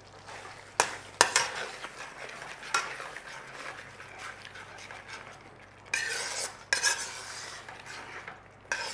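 A spoon stirring a thick, creamy curry sauce in a pan, scraping the bottom with occasional sharp knocks against the pan, while the sauce bubbles and sizzles faintly.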